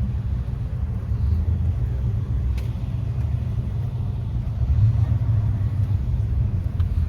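Steady low rumble of a car running, engine and road noise.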